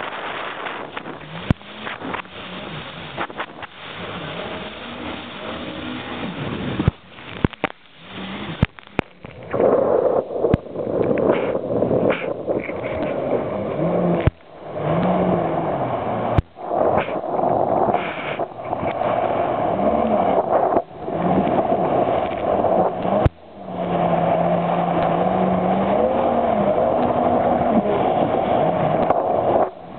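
Jet ski engine running and revving up and down, with wind noise on the microphone. It grows louder about nine seconds in and drops out briefly several times.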